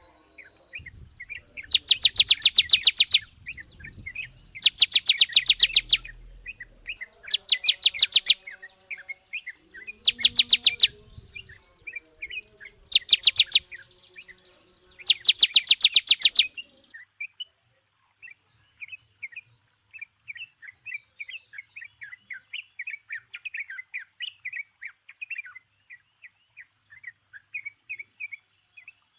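Songbirds singing: a loud, very fast trill about a second long repeats six times, roughly every two and a half seconds, over softer chattering chirps. After about seventeen seconds the loud trills stop and only the quieter, rapid chirping goes on.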